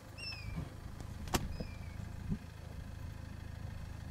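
Game-viewing vehicle's engine idling steadily. Two short, falling bird whistles come near the start and again about a second and a half in, and a single sharp click comes just before the second.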